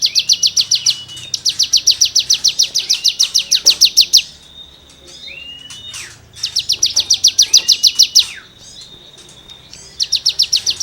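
A cigun (ciblek gunung) singing: loud rapid-fire trills of sharp, evenly repeated high notes, about nine a second, in bouts of one to three seconds, broken by short rising whistles. This is its 'nembak' rapid-fire song material.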